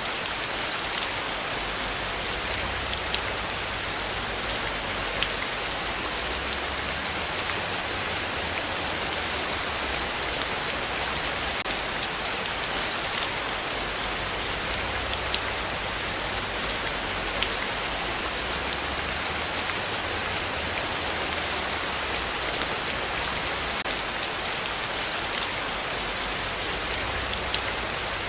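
Heavy rain falling steadily, a dense even hiss with many sharp individual drop ticks, and a faint low rumble that swells and fades underneath.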